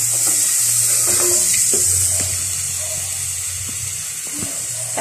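Chicken pieces and onion sizzling in an aluminium pot on a gas stove while being stirred with a wooden spoon: a steady frying hiss with a low hum beneath and a few light knocks of the spoon.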